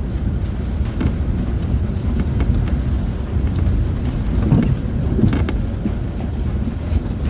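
Land Rover Discovery 4 heard from inside the cabin on a rough, wet off-road track: a steady low rumble of engine and running gear, with a few short knocks and rattles.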